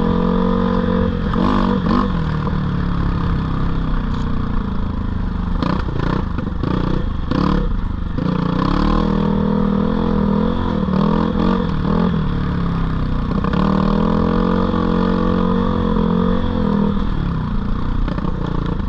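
GPX 450R four-stroke dirt bike engine running under riding load, its pitch rising and falling as the throttle is worked. A few sharp clattering knocks come from about six to eight seconds in.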